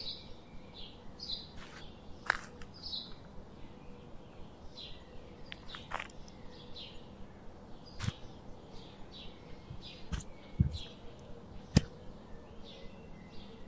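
Small birds chirping over and over in short, high-pitched calls, faint against the open-air background. A few sharp clicks and knocks stand out, the loudest about two seconds in and near the end.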